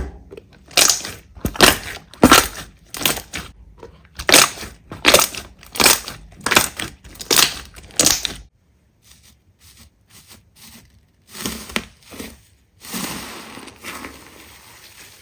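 Slime being squeezed and pressed by hand, giving a run of sharp crackling squishes about one every 0.7 seconds. After a short pause it becomes a softer, continuous crackle.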